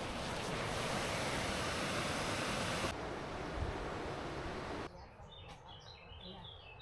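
Steady rush of a waterfall. About five seconds in it drops suddenly to a quieter outdoor background with birds chirping repeatedly.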